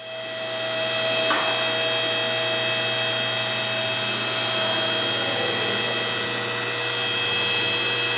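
A power tool running steadily at constant speed, a high-pitched whine over a low hum, with no change in load.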